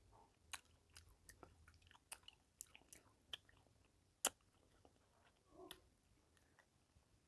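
Faint mouth sounds of someone eating rice and fish curry: scattered wet clicks and lip smacks, the sharpest about four seconds in.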